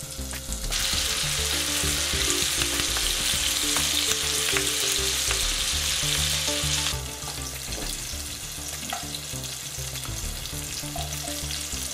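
Apple wedges sizzling in melted butter and sugar in a frying pan as they fry to caramelise. The sizzle is loud at first and drops to a quieter frying sound after about seven seconds.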